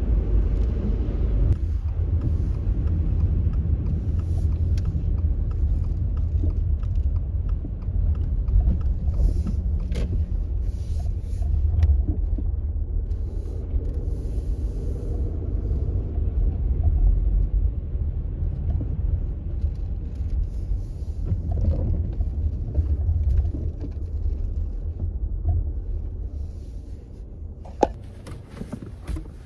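Low, steady rumble of a car heard from inside its cabin. It eases near the end, where there are a few light clicks.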